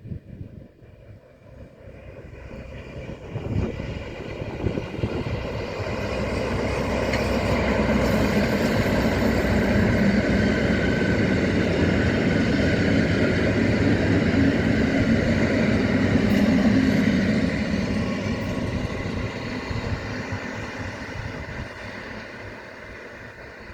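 A train passing by, growing louder over several seconds, running loudest for about ten seconds, then fading away.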